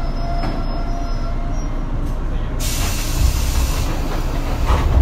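JR 117 series (300 subseries) electric train standing at a platform, its equipment giving a steady low rumble and hum. About two and a half seconds in, compressed air hisses out loudly for over a second.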